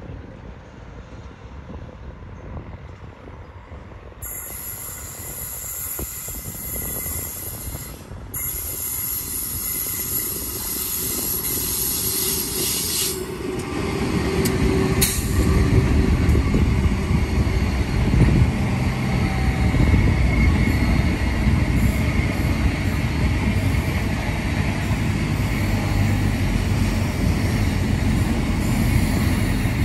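Freight train approaching and rolling past: a high-pitched hiss comes in first, then from about halfway the loud, steady rumble of the wagons passing builds and holds.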